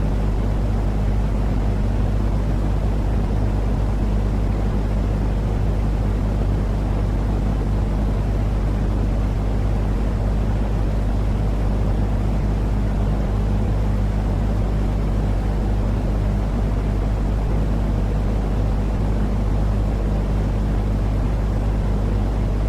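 Steady low rumbling noise with a constant deep hum under it, unchanging throughout: a continuous sleep noise for calming babies, heavy in the bass like an engine drone rather than hissy white noise.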